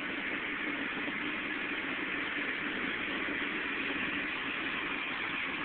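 Steady hum and hiss inside a car's cabin while driving: engine and road noise.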